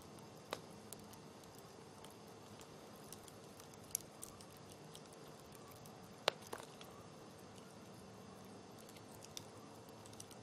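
Campfire crackling faintly, with scattered sharp pops from the burning wood; the loudest pop comes about six seconds in.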